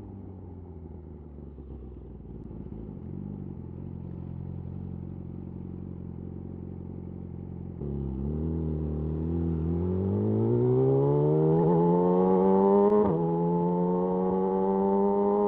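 Yamaha YZF R6's inline-four engine through a de-catted Akrapovic slip-on exhaust, running at low revs for the first half. About halfway it gets louder and the exhaust note climbs steadily in pitch under acceleration. Near the end there is a brief break for an upshift, then it carries on pulling.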